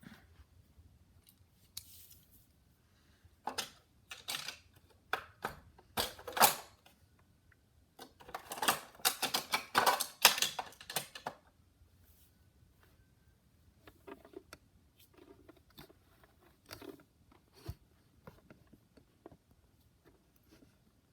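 Hot Wheels die-cast toy cars handled and knocked together, a series of sharp clicks and clacks with a dense stretch of clattering in the middle, then lighter scattered taps.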